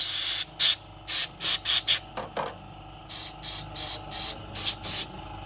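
Trigger spray nozzle giving short hissing bursts, about a dozen in quick succession with brief gaps between them.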